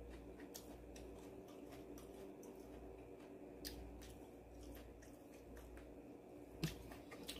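Faint mouth-closed chewing of guobaorou, sweet-and-sour fried pork, with a few small sharp clicks, over a steady low hum.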